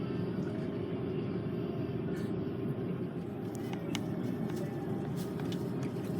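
Steady low rumble of an Airbus A330-300's engines and airflow heard inside the cabin, unchanging in level, with a few faint clicks.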